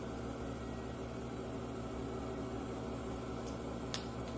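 Steady room hum and hiss, with a single faint click near the end.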